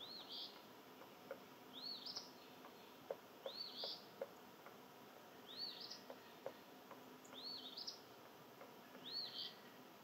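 A bird calling six times, about once every one and a half seconds, each call a short high note that rises and falls followed by a brief buzzy part. Faint scattered clicks sound between the calls.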